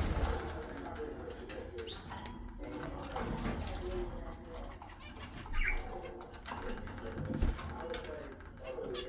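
Birds in a mixed parrot aviary calling: repeated low calls with two short high chirps and scattered fluttering and clicks.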